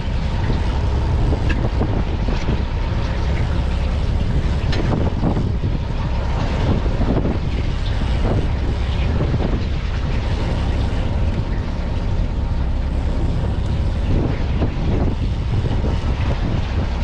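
Fishing boat's engine running steadily, a constant low rumble, with wind noise on the microphone.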